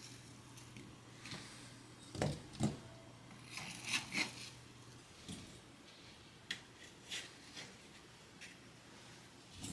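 Kitchen handling sounds: light knocks, clicks and scrapes of utensils and containers, with two heavier thuds about two seconds in, over a faint steady hum.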